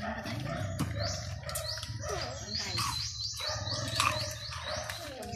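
Small bird calling: a quick run of short, rising, high-pitched chirps, about five a second in the second half, over a low steady hum.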